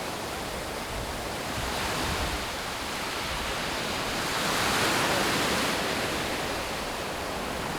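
Sea waves breaking on the shore. A wash that swells to its loudest about five seconds in, then eases off.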